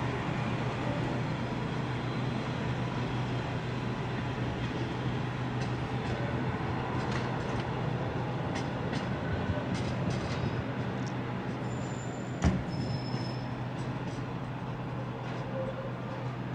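Matterhorn-Gotthard-Bahn passenger train rolling past: a steady low hum and rumble with light clicking of wheels on the rails. Two brief high squeals come near one sharp clack about three-quarters of the way through.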